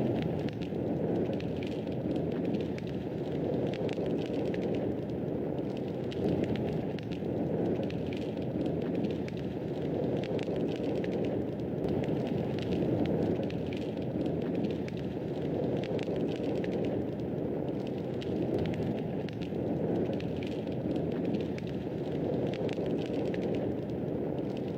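Wood fire burning in a fireplace: a steady low rush of flames with many small, irregular crackles and pops throughout.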